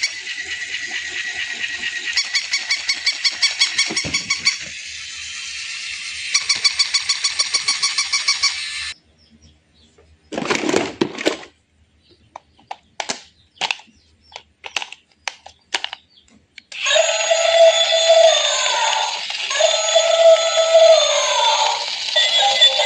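Rapid electronic beeping, several pulses a second, for about nine seconds, then a few short separate bursts and clicks, then electronic music with a melody starting about seventeen seconds in.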